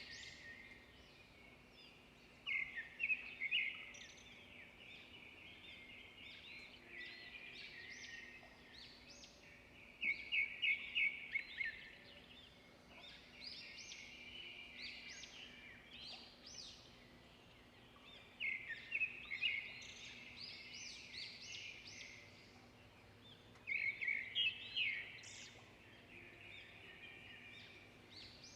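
Songbirds singing in a continuous chorus of high chirps and whistles. Louder phrases of rapid repeated notes, each lasting a second or so, come four times, several seconds apart.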